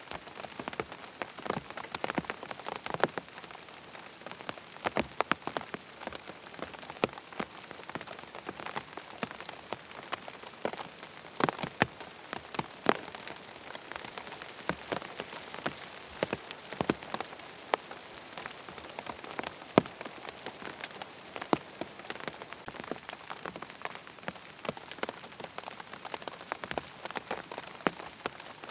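Steady rain falling, with many sharp, irregular drop impacts heard over the even hiss.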